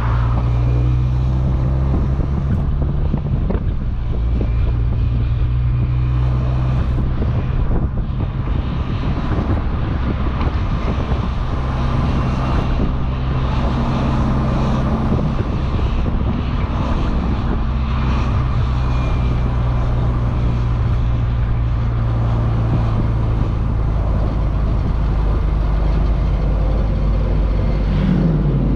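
Motorcycle engine running at fairly steady revs under a constant rush of wind noise. Near the end the engine note drops sharply as the revs fall.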